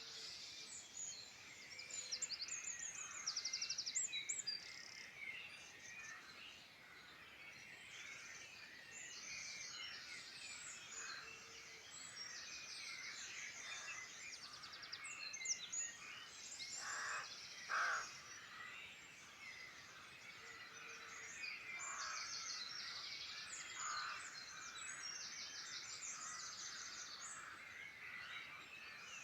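Several wild birds singing at once: overlapping chirps and rapid high trills, with a few louder notes past the middle and a faint low note coming back every several seconds, over a soft outdoor background hiss.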